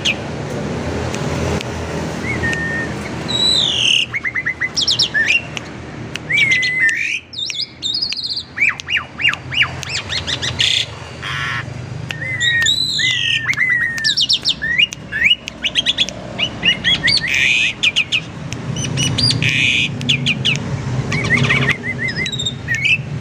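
Asian pied starling (jalak suren) singing a long, varied song of whistled glides, squawky notes and quick rattling runs of short chirps, over a steady low background rumble.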